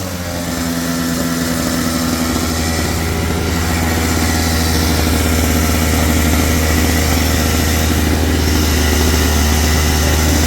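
Sawmill engine running steadily at an even low speed, with no blade in the wood. Just before, the saw was cutting.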